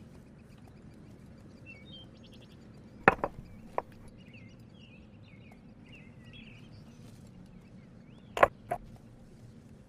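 Sharp tool strikes in two groups: three about three seconds in and two more near the end. Small birds chirp faintly between them.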